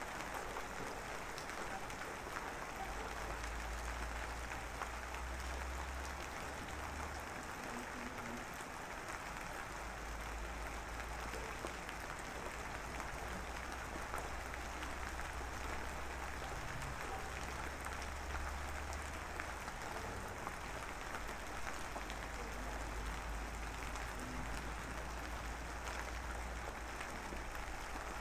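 Steady rain falling, a dense even hiss of drops, with a low rumble coming and going underneath.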